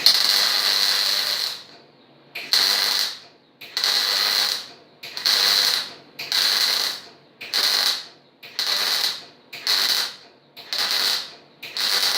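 MIG welder arc crackling in a run of about ten short stitch welds, each burst under a second after a longer first one, with brief pauses between. The welder feels the puddle is running a little too hot for this thin material.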